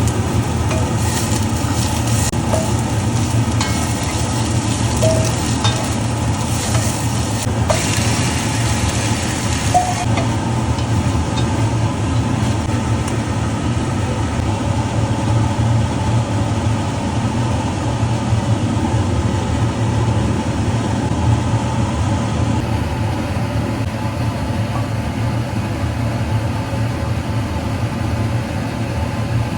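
Food sizzling in a pan over a steady low hum, with a few light utensil ticks in the first ten seconds.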